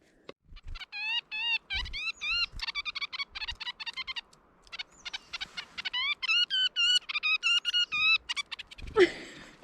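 A blue jay calling: two bouts of quick, repeated whistled notes, several a second. The owner takes the calling as the female calling out to a mate.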